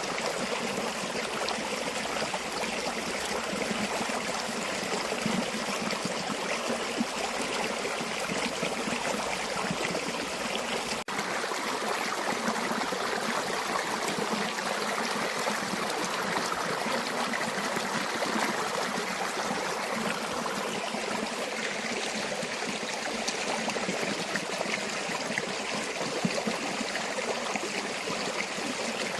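River water running and babbling steadily over rocks. About eleven seconds in there is a momentary dropout, and after it the low rumble is weaker.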